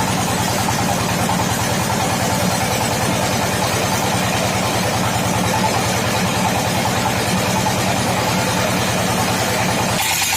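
Old sawmill machine running steadily with a regular pulsing hum. The sound changes abruptly just before the end.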